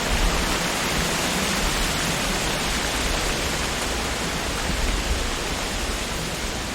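Wind rushing through tree leaves in a steady, dense hiss, with a low rumble of gusts underneath.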